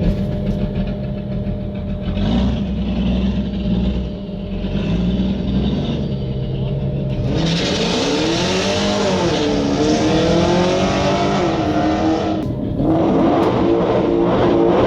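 V8 of a Ford Mustang Shelby GT500 idling, then about seven seconds in revving hard through a burnout, engine pitch rising and falling over a loud hiss of spinning tyres for about five seconds. After a brief lull the engine revs up again.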